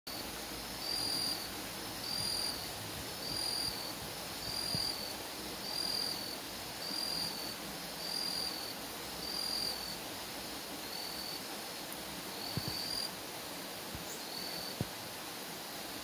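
A bird repeating one short, high call at an even pace, about once a second, a dozen times, before falling silent near the end. Two faint knocks sound after the calls stop.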